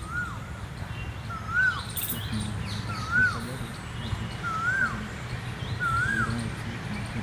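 A bird repeating a short whistled note that rises and then drops, about every one and a half seconds, five times, over a steady low background rumble. A couple of brief sharp knocks stand out about a second and a half and three seconds in.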